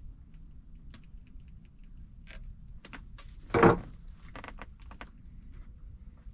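Hand work on a battery cable and its connector: light metallic clicks and rattles, with one loud short crunch about three and a half seconds in.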